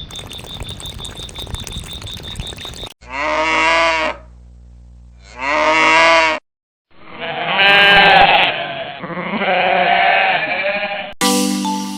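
Crickets chirping in a steady pulsing trill, then sheep bleating: two short bleats followed by a longer run of bleats. Mallet-percussion music starts just before the end.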